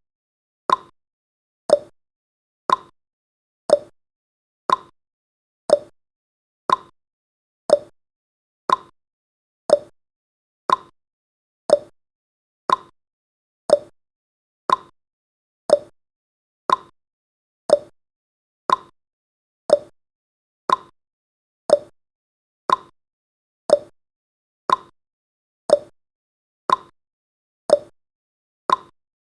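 Countdown timer's clock-tick sound effect: short, sharp ticks about once a second, alternating slightly in pitch like a tick-tock.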